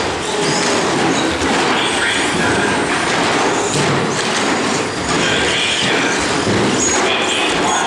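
Several R/C short course trucks racing on an indoor track: high motor whines that come and go as the trucks accelerate past, over a steady clattering rush of tyres and chassis on the track surface.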